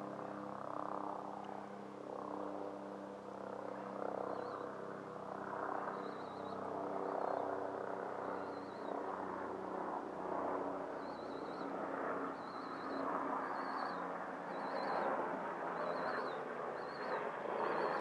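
Outdoor ambience: a steady machine hum fades away over the first several seconds under a rising and falling wash of wind or distant traffic. From about four seconds in, short high trilled chirps repeat roughly once a second.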